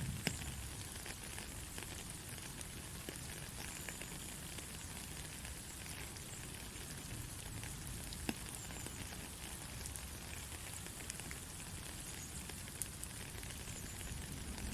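Gentle steady rain, a soft even hiss with scattered individual drop ticks.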